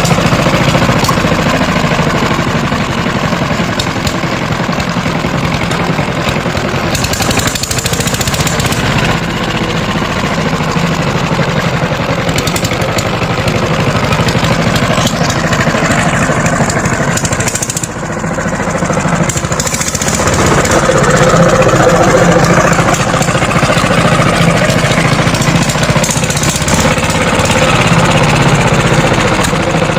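Power tiller engine running with a rapid knocking beat. It drops briefly about two-thirds of the way through, then runs louder again.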